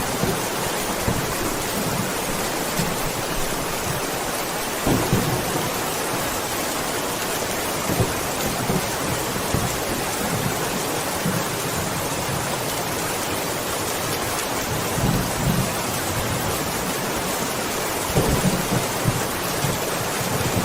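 Steady heavy rain hissing, with low rolls of thunder swelling up several times: about five seconds in, again around eight to ten seconds, and near the end.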